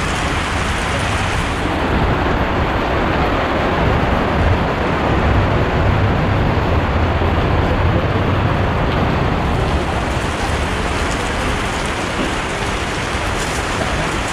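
Heavy rain pouring steadily, a loud even hiss of rain on the shed roof and the wet ground, with a deeper rumble swelling through the middle few seconds.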